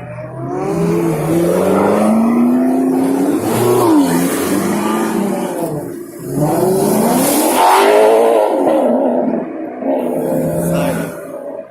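High-performance car engine revving hard, its pitch climbing and falling repeatedly, in two long loud surges; the second begins about six seconds in.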